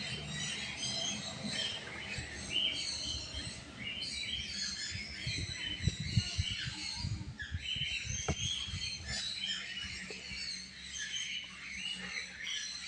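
Conure chicks chirping, many short calls overlapping without pause. A run of low knocks and a sharp click about halfway through.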